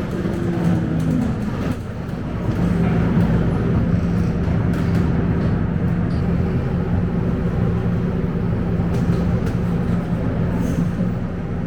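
Scania K270UB city bus's diesel engine and road noise heard from inside the cabin while driving. The engine note drops in pitch with a brief lull about two seconds in, then settles into a steady drone.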